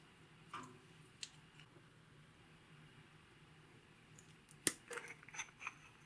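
Faint handling sounds of makeup and slime: a few soft clicks, then a sharp click about four and a half seconds in, followed by a quick run of small crackles.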